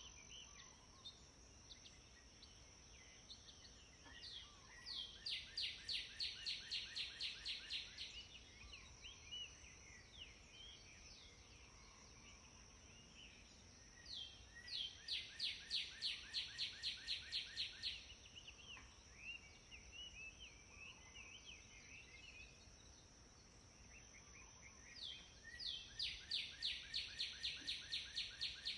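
Birdsong: a bird sings a fast trill of evenly repeated notes, about four a second, three times about ten seconds apart, with scattered faint chirps between. A steady high hiss runs underneath.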